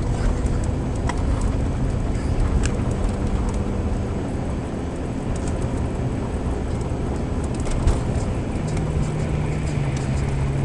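Car engine and road noise heard from inside a moving car, the engine's tone stepping up in pitch about two seconds in and dropping back near the end.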